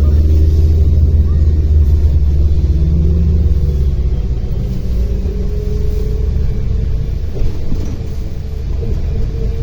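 Interior of a MAZ-105 articulated city bus under way: a loud, steady low rumble from the diesel engine and running gear, its pitch drifting slightly as the bus drives between stops.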